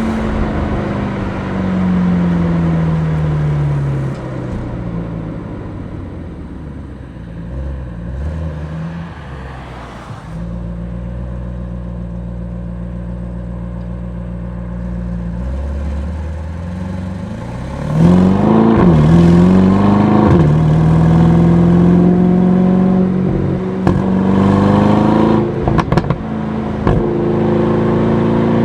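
Aston Martin DBX S's 4.0-litre twin-turbo V8 driving. The engine note falls in pitch at first, runs steady and quieter for a while, then the car accelerates hard: the exhaust gets suddenly louder with the pitch climbing, dips at a gear change, and settles into a steady pull, with a few sharp clicks near the end.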